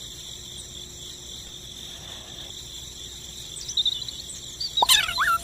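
Crickets chirring steadily in a high, even drone, with a few short chirps joining in near the end and a louder burst of squeaky rising and falling calls just before it ends.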